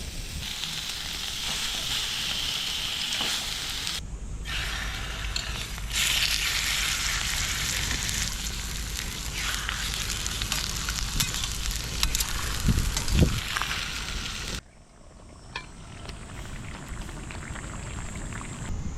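Food sizzling as it fries in a pan, heard in several short clips that cut abruptly from one to the next. It turns quieter about fifteen seconds in.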